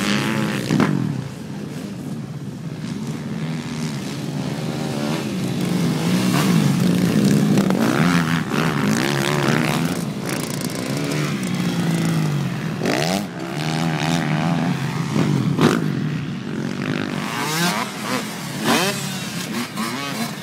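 Several motocross dirt bikes racing, their engines revving up and falling back over and over as riders work the throttle and shift through the corners and jumps.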